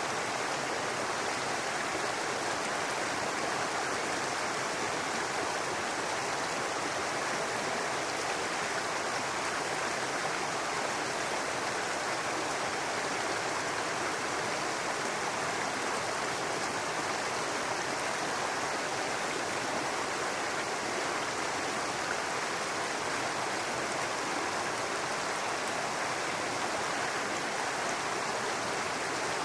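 Brook water running over rocks, a steady babbling rush with no breaks.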